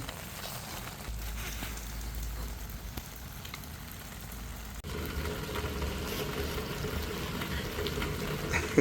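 Steady rain falling, an even hissing patter. About halfway through, the sound changes abruptly and a faint steady hum with a low rumble joins the rain.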